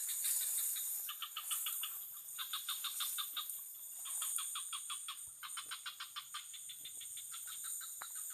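An unseen animal calling in repeated bouts of short, rapid notes, about seven a second, each bout lasting about a second. A steady high hiss runs underneath.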